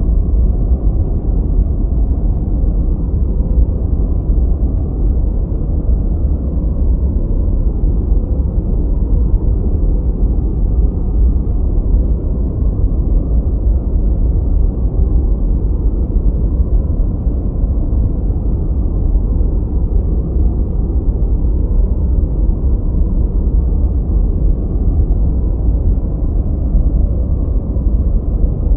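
Steady, unchanging noise track for studying or sleep, deep and muffled, with most of its weight in the bass and almost nothing in the high range.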